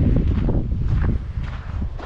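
Wind buffeting the microphone with a low rumble that eases off a little over a second in, over a hiker's footsteps crunching on a dirt trail about twice a second.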